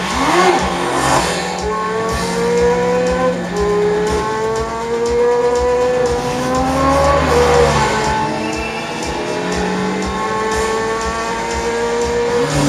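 Motorcycle engine accelerating hard in a film soundtrack, its pitch climbing through each gear and dropping back at the shifts several times.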